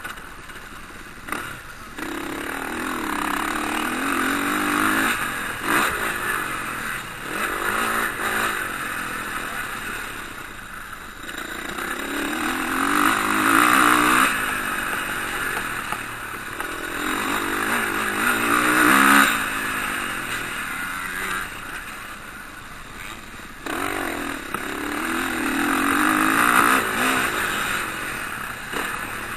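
Motocross bikes revving and passing on the track. The engine sound rises and falls in several waves as riders come by and go away.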